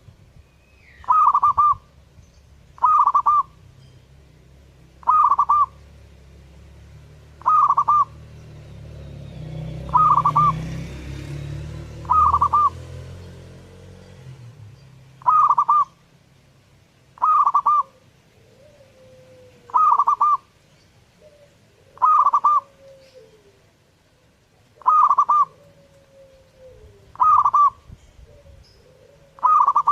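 Zebra dove (perkutut) cooing over and over, one short call about every two seconds. A low rumble swells through the middle, and in the second half a fainter, lower falling call trails several of the coos.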